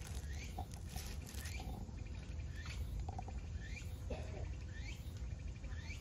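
A bird repeating a short rising chirp about once a second, over a low steady rumble of outdoor background noise.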